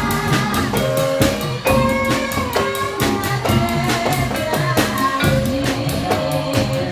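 Live incling dance music: a Javanese folk ensemble playing a fast, steady drum beat under a pitched melody, continuing without a break.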